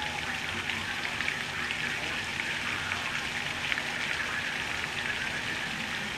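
Heavy hurricane rain pouring steadily, with many close drops ticking on nearby surfaces.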